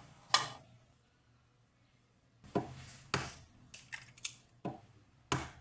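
Sharp clicks and knocks of objects being handled: one near the start, a quiet pause, then about six more in an uneven run, the last one the loudest.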